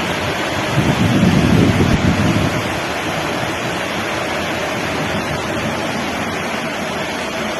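Steady loud rush of water, with a heavier low surge about a second in.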